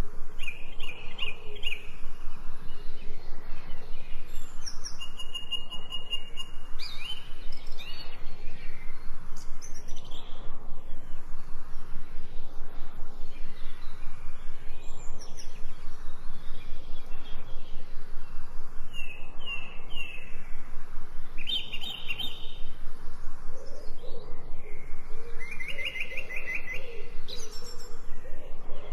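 Steady rain with birds chirping over it in short trilled phrases, repeated every few seconds. A lower-pitched bird call comes in near the end.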